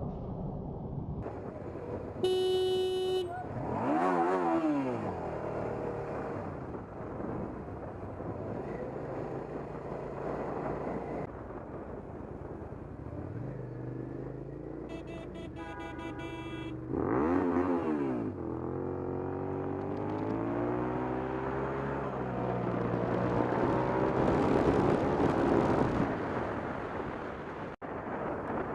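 Motorcycle engine accelerating and shifting, its pitch dropping and climbing again several times, over wind and road noise. A vehicle horn sounds briefly about two seconds in and again for a second or two around the middle.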